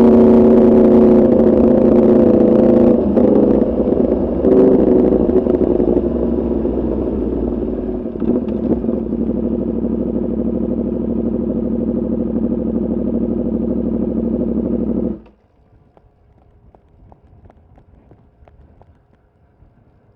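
Yamaha R1's crossplane inline-four, through an Arrow Pro Racing exhaust, running at low, steady revs, then cutting out abruptly about fifteen seconds in. Faint scattered ticks remain after it stops.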